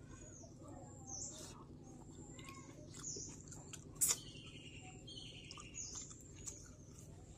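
Small birds chirping repeatedly in short, high, downward-curving calls over a low steady hum, with one sharp click about four seconds in.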